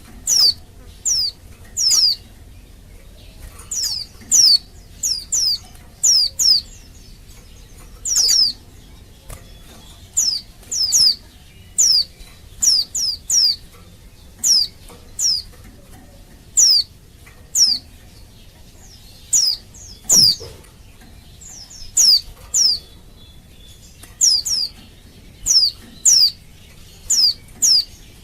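Female white-eye (pleci, Zosterops) calling: short, high, sharply falling notes, mostly in quick pairs or threes, repeated every second or so. It is a female's call to males, of the kind played as a lure to set male white-eyes singing.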